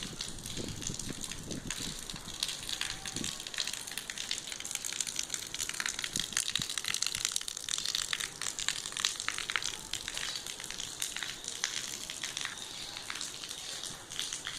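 Water running and dripping after rain: a steady, dense crackling hiss full of small irregular ticks, with a few soft low thumps in the first few seconds.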